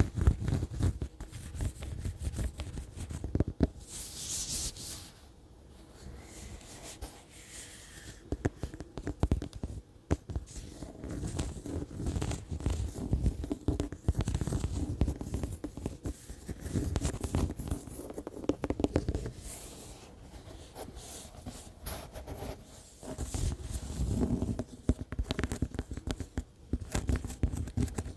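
Fingers tapping close to the microphone in quick, irregular runs of light taps, with a brief scratchy hiss about four seconds in and a quieter lull just after.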